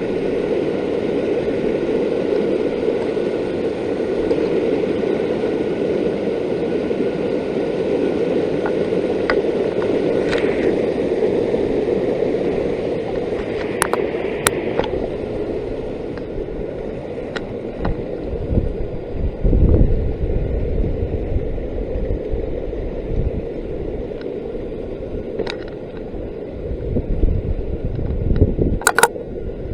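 Steady rush of water from a waterfall and stream, with a few sharp clicks. From a little past halfway, uneven low bumps and thuds on the microphone come in.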